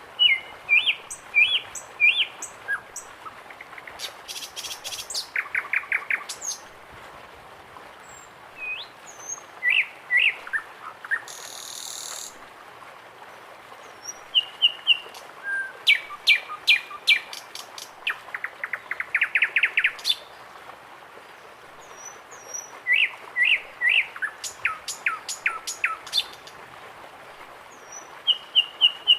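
Several birds calling at once: short whistled chirps repeated in groups of three or four, fast runs of sharp chattering notes, and a few falling slurred calls. A brief hissing burst comes about twelve seconds in.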